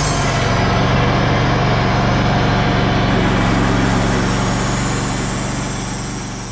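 Large engine running steadily at a constant speed, with a low even hum; the sound fades out near the end.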